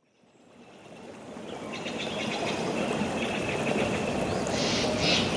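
Nature ambience fading in: a steady rush of flowing water, with birds chirping in quick runs of short notes over it and two brighter raspy calls near the end.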